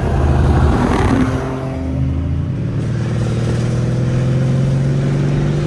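Mercedes CLS550's twin-turbo V8 with aftermarket downpipes under hard acceleration for about a second and a half, then a steady engine note that climbs slowly in pitch as it pulls through a gear.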